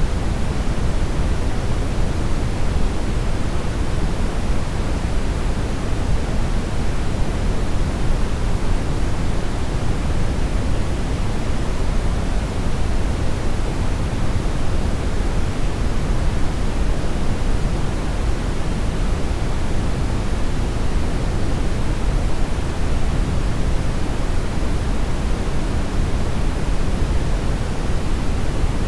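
Synthetic brown noise: a steady, unchanging hiss-like rumble with most of its weight in the low end and the highs rolled off.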